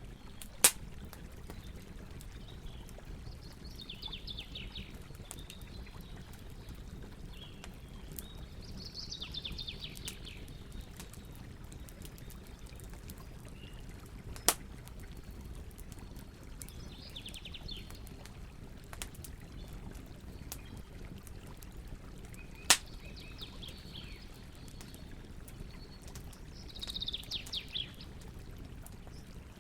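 Campfire burning: wood crackling with small scattered ticks over a steady low noise, and three sharp, loud pops near the start, in the middle and about three-quarters through. Birds give short trilling calls now and then in the background.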